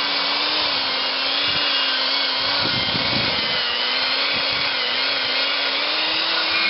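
Electric power tool spinning a wire brush against a steel tractor wheel rim, scouring it clean for priming and paint. It runs steadily, its motor pitch wavering slightly.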